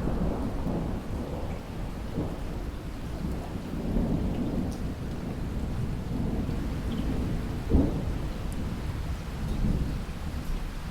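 Thunder rumbling over steady heavy rain in a rainstorm, the rolling rumble peaking in one sharper clap about three-quarters of the way through.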